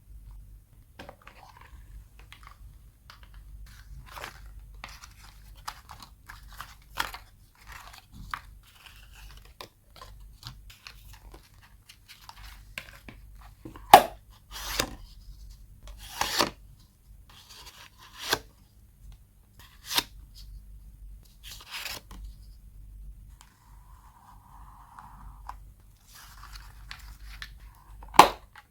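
Close-up paper and tape crafting sounds: irregular tearing and crinkling of paper and washi tape, broken by a few louder sharp snaps.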